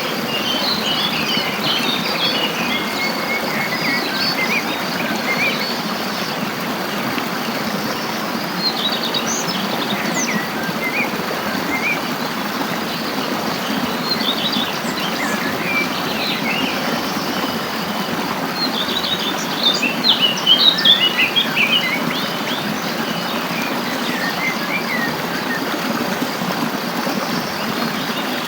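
Songbirds chirping and singing in short, high, scattered calls over a steady hiss. A dense cluster of calls about twenty seconds in is the loudest part.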